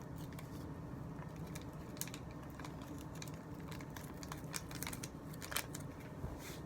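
Crinkling and small clicks of an instant-noodle seasoning packet being opened and emptied, in scattered short bursts over a low steady hum.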